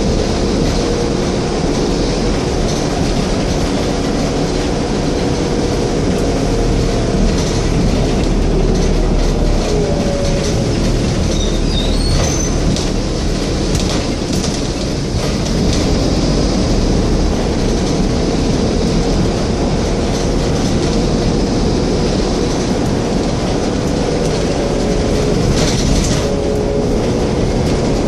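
Scania N230UD double-decker bus under way, heard from on board: its diesel engine and drivetrain run with a constant rumble and a whine that falls away about halfway through and then climbs again, with scattered short rattles.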